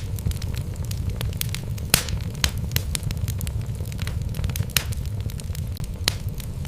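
Wood fire burning in a fireplace: a steady low rumble of flame with many sharp crackles and pops from the burning logs, the loudest pop about two seconds in.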